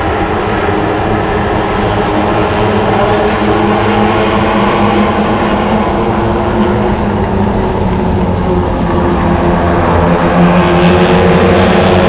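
A pack of racing motorcycles running hard just after the lights go out at a race start, with many engine notes overlapping into one steady drone. It gets louder about ten seconds in.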